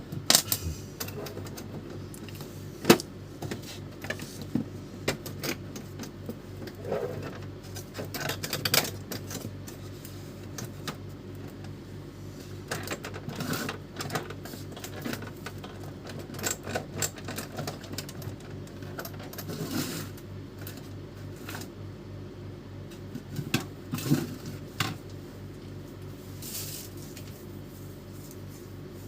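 Irregular clicks, taps and knocks of plastic parts and tools being handled while an Epson L310 inkjet printer is taken apart, over a steady low hum.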